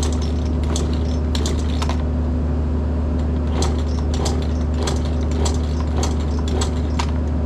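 Irregular sharp metallic clicks and rattles, about fifteen spread unevenly, over a steady engine idle.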